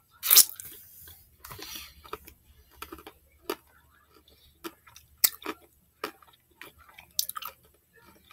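Close-up chewing of milk chocolate with almonds: wet mouth smacks and sharp clicks at irregular intervals. The loudest is a wet smack from licking chocolate off a finger just after the start.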